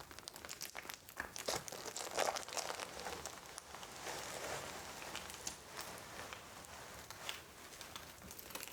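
Plastic packaging being unwrapped from a new keyboard by hand, with irregular crinkling and crackling throughout.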